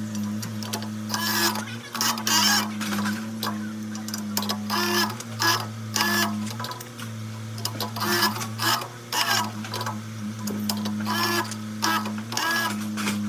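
Steady low motor hum with short rasping strokes repeated irregularly, roughly one every second or so.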